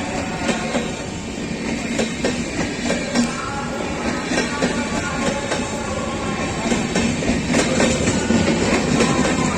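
Express train rolling past, its wheels clacking irregularly over rail joints.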